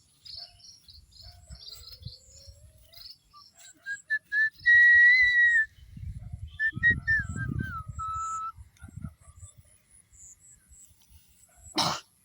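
Small birds chirping in quick high notes, then a loud whistled note held for about a second, followed by shorter sliding whistled notes. A sharp click comes near the end.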